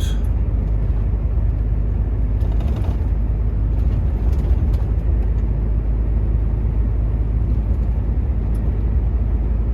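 Volvo semi-truck running steadily down the highway, heard inside the cab: a constant low engine and road drone.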